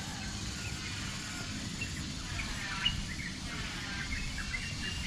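Assorted birds chirping and whistling in short calls, starting about a second and a half in, with one sharper chirp near the middle, over a steady low rumble.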